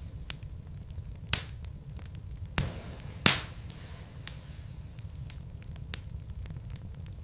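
Burning wood logs in a fireplace crackling over a steady low rumble, with scattered small ticks. Three louder pops come between about one and three and a half seconds in, the last the loudest.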